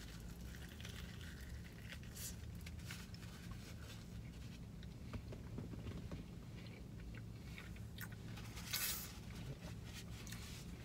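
A person chewing a mouthful of fried chicken sandwich in a glazed donut bun, with small wet clicks and crunches, over a low steady hum. A brief rustle comes about nine seconds in.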